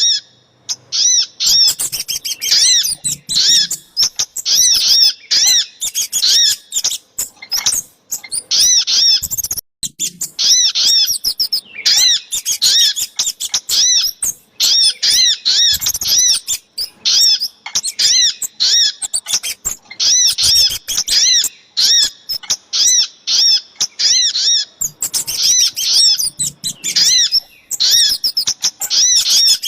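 Bird-lure recording of small songbirds, the sogok ontong and the kemade (Indonesian local names), giving dense runs of sharp, high chirps, several a second, broken by brief pauses.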